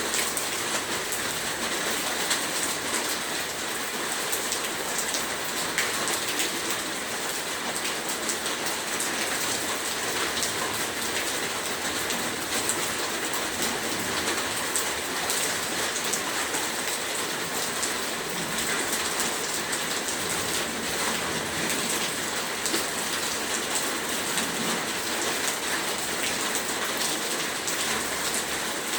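Heavy rain falling steadily, a dense even hiss of rain with many fine drop impacts.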